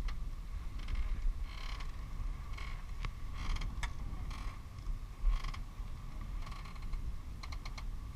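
Boat creaking: a series of short, irregular creaks over a faint steady hum.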